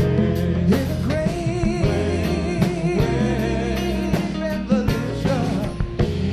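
Live soul band playing, with drum kit hits, bass and guitar chords under a wordless lead vocal line that wavers with vibrato.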